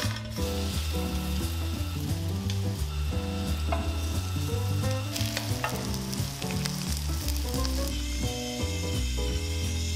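Food frying and sizzling in hot pans while a silicone spatula stirs it, with sharp clicks and scrapes of the spatula against the metal. Background music with a bass line plays underneath.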